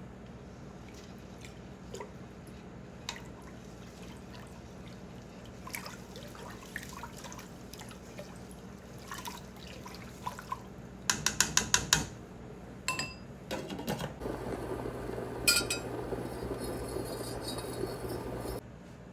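Glass beakers and lab glassware clinking, with a quick run of sharp clinks about midway, then liquid poured steadily for about four seconds, stopping abruptly near the end, as soap ingredients are prepared.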